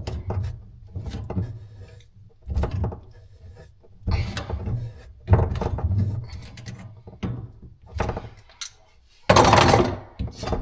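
Irregular knocks, taps and clatter of plumbing tools and fittings being handled as a water line is connected directly, with a louder noisy burst lasting about a second near the end.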